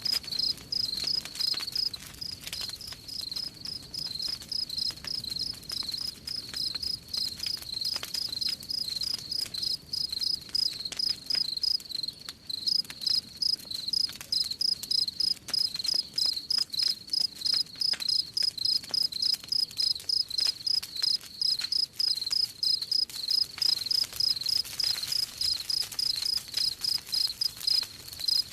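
Crickets chirping in a steady, even rhythm of about three chirps a second, over the faint crackle and pops of a burning campfire.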